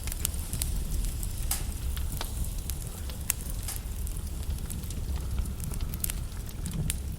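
Logs burning in a fireplace, crackling with many irregular sharp pops over a steady low rumble.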